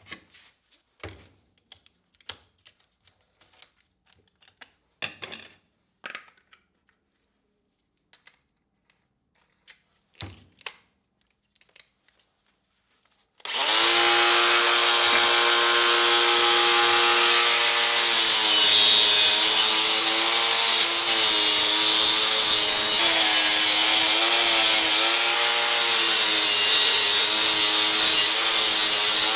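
A few light metallic clicks and knocks, then about halfway through an angle grinder starts and runs continuously on sheet steel, its whine dipping and wavering as the load changes.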